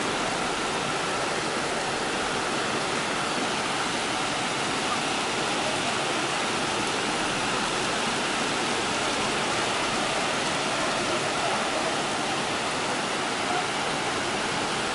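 Heavy rain falling steadily on flat rooftops: an even, unbroken hiss.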